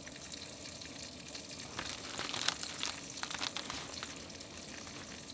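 Food sizzling in oil in a frying pan, a steady hiss, with a few sharp clicks of a utensil against the pan about two to three and a half seconds in.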